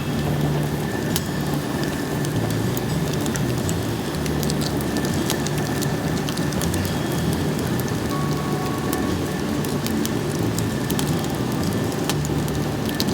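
Bamboo fire burning in a pail can with holes punched in its base: a steady low rumble of the flames with many small sharp crackles.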